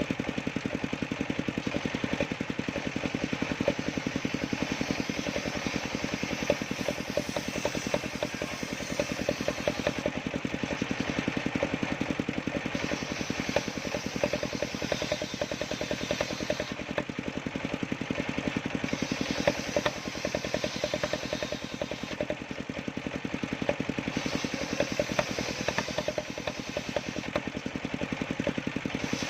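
Engine of a homemade sawmill running steadily at an even speed.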